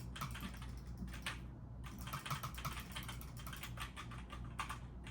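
Rapid, irregular clicking of computer keyboard keys pressed during play, over a low steady hum.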